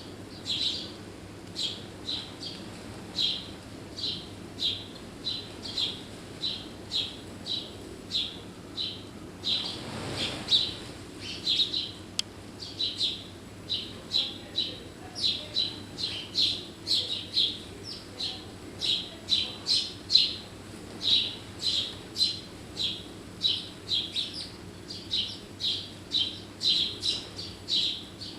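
A bird chirping over and over, about two short, high chirps a second in a steady rhythm. There is a brief rush of noise about ten seconds in.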